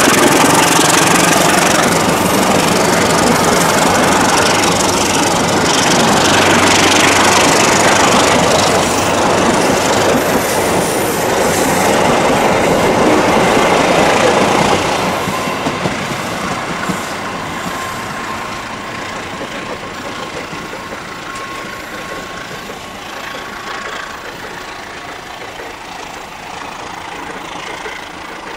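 A diesel-hauled passenger train passing close by, its wheels running over the rails. From about halfway through, the noise fades steadily as the train moves away into the distance.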